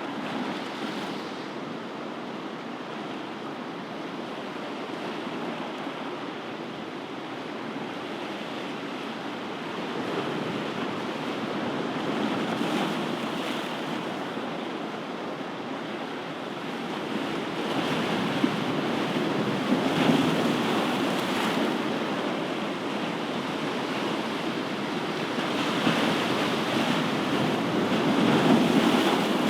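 Ocean waves breaking and washing on a shore, a steady rush of surf that swells and eases several times as successive waves come in.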